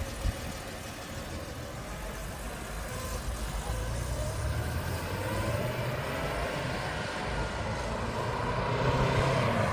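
Engine noise of a passing vehicle, a steady low rumble that grows gradually louder over several seconds.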